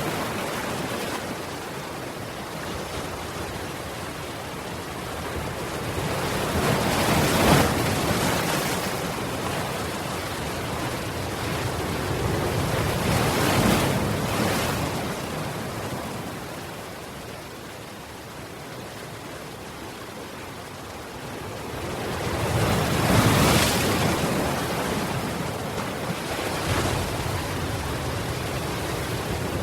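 Sea waves washing in over a steady rush of surf, swelling and fading in slow surges, the biggest three about six to ten seconds apart.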